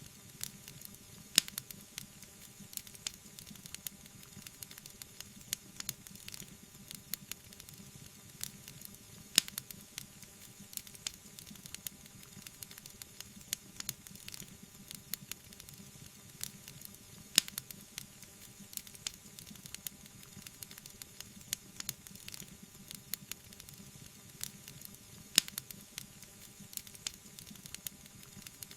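Wood fire burning in a fireplace, crackling steadily with many small pops over a soft hiss. Louder single pops come about every eight seconds.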